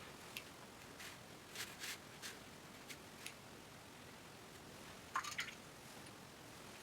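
Faint, scattered brush strokes and dabs of a watercolour brush on paper, a few short wet scratches spread out, with the loudest cluster about five seconds in.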